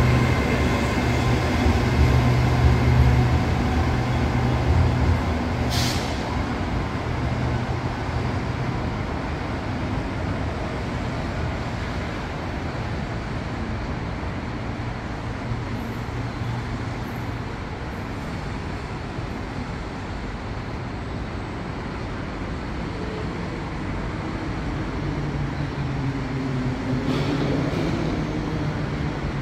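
Diesel train engine running with a low, steady hum that fades away over the first several seconds, leaving a steady rumble. A sharp click comes about six seconds in, and another engine hum builds near the end.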